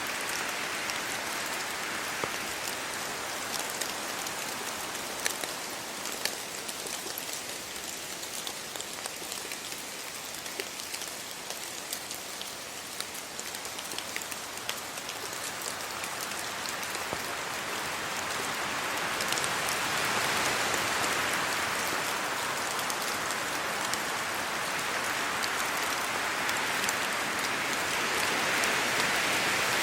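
Steady rain falling on leaves and the road, with scattered sharp drop ticks. The rain and wind swell louder about two-thirds of the way through.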